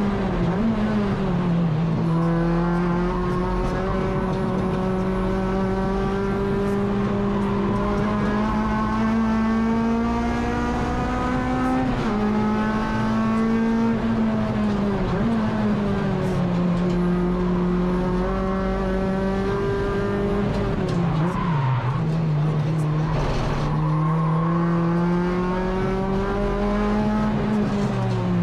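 Honda K24 four-cylinder engine of a Civic EG race car driven hard on track. Its note climbs steadily through long pulls and drops sharply at gear changes and braking, about four times.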